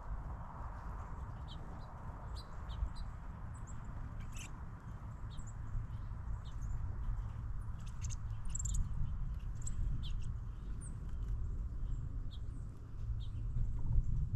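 Small songbirds chirping in short, scattered calls, many of them through the whole stretch, over a steady low rumble.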